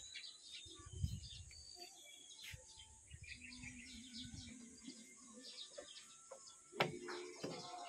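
Small birds chirping faintly, many short high calls overlapping. There is a brief low rumble about a second in and a single knock near the end.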